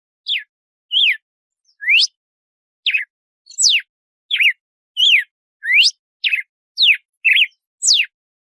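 Red-cowled cardinal (galo-de-campina) singing its 'açoite' song: a string of about a dozen short, clear whistled notes, each sliding sharply up or down in pitch, roughly one and a half notes a second.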